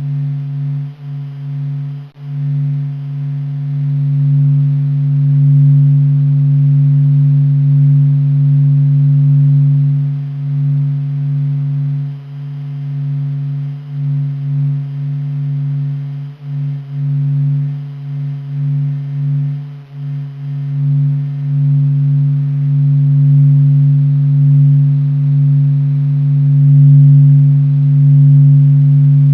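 NASA's sonification of the Sun's surface vibrations, solar data sped up into the hearing range: a deep steady drone with a fainter tone above it, its loudness wavering and briefly dipping now and then.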